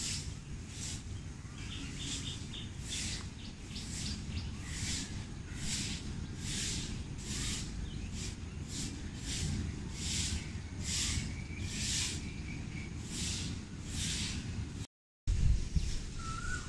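Outdoor bird calls: short, high chirps repeating a little more than once a second over a steady low rumble. Near the end there is a brief dropout and then a short low thump.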